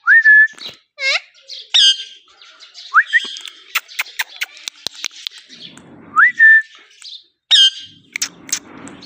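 Pet Indian ringneck parakeet calling: three rising whistles that level off, harsh squawks, and a run of sharp clicks in the middle.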